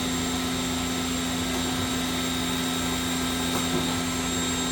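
Haas SL-10 CNC lathe spindle running steadily at 5,000 RPM: a constant high whine over a low hum, with no load on it.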